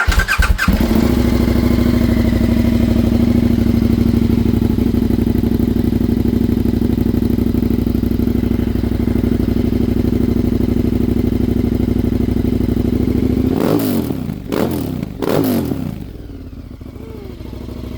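KTM 1290 Super Adventure R's V-twin, fitted with a decat straight-pipe exhaust, fires up and idles loudly and steadily. Near the end the throttle is blipped twice in quick succession, after which it settles to a quieter idle.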